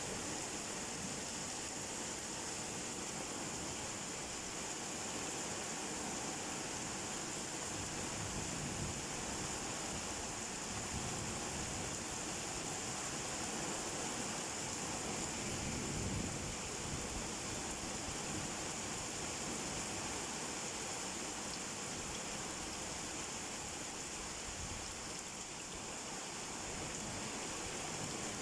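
Steady rainfall, an even hiss of many drops with no single drop standing out.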